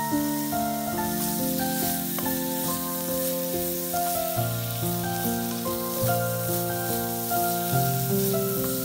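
Julienned carrot sizzling in a hot non-stick frying pan just splashed with mirin, a steady hiss. Background music plays a melody of held notes over it.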